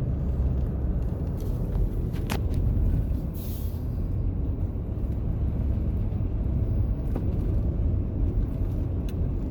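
Steady low rumble of a car's engine and tyres heard from inside the cabin while driving, with a sharp click a little over two seconds in and a brief hiss about a second later.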